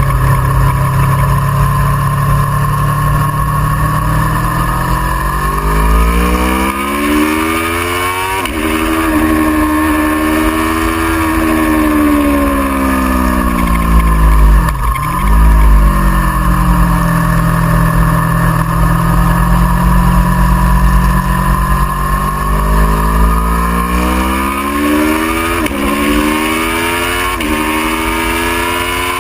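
Aprilia Tuono V4R's V4 engine, heard from on the bike over wind noise, accelerating hard with a rising pitch and a sharp upshift, then falling in pitch as the bike slows for a corner, with a brief dip and blip around halfway. It pulls away again near the end, rising through two quick upshifts.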